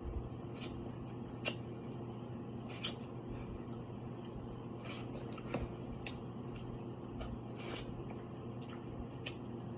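Close-up eating sounds of seafood in garlic sauce: irregular wet mouth smacks, squishes and clicks from chewing, a few every second, over a steady low hum.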